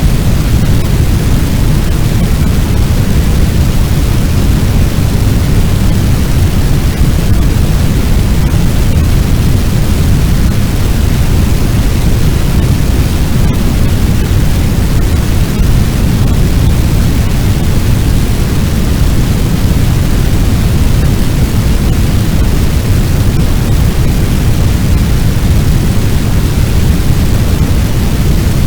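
Fire sound effect: a steady, deep rush of noise like the roar of a large blaze, heaviest in the low end, with no distinct crackles or pops and no change over the whole stretch.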